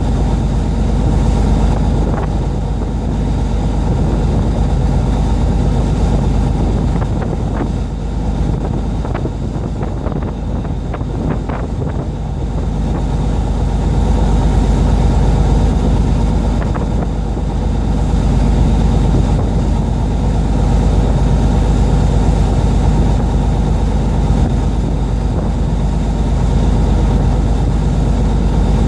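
Fishing boat's engine running steadily with a low hum, with a few light clicks and knocks partway through.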